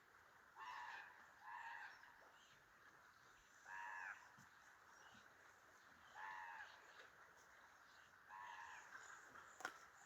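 Common raven calling five times, each a short call about half a second long, spaced one to two seconds apart. A single sharp click comes near the end.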